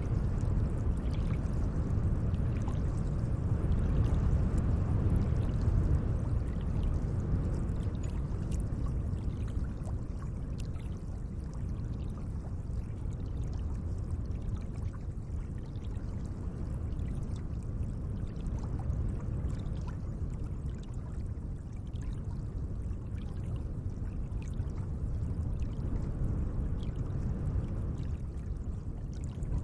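Gentle lake water: a steady low wash of moving water with many faint small splashes, a little louder in the first several seconds.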